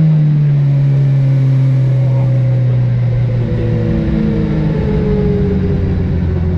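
Suzuki rally car's engine heard from inside the cabin, its revs falling slowly as the car slows after the stage finish, then changing to a steadier, lower note about three and a half seconds in.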